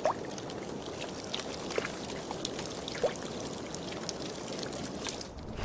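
Water trickling steadily, with many small drips and plops.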